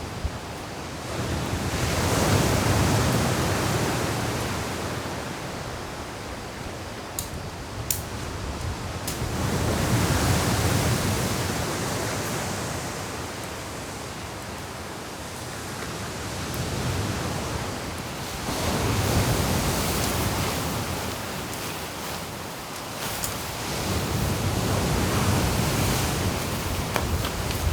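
Sea surf and strong wind: waves breaking and washing in, swelling and falling back in slow surges every several seconds, with a few faint clicks.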